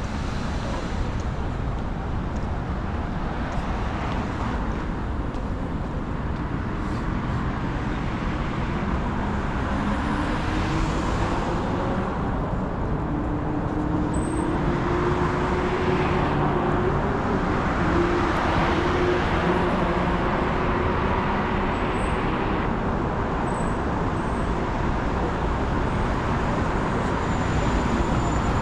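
City street traffic: vehicles running along the road in a steady hum of tyres and engines, with one engine's tone slowly rising in pitch through the middle.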